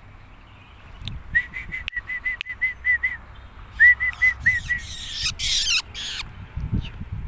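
Long-tailed shrike (cendet) calling: a fast run of short, repeated whistled notes, a second run a moment later, then harsh, scratchy chatter near the end.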